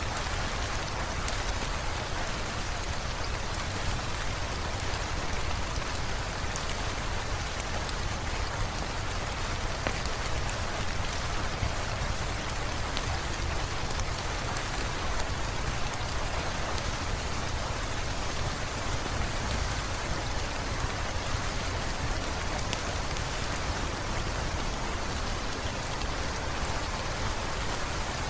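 Steady rain falling on hard surfaces, with scattered small drop ticks and a constant low rumble underneath.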